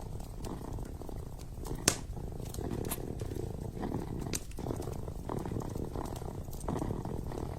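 Kitten purring steadily, with a wood fire crackling alongside it in scattered sharp pops, the loudest about two seconds in.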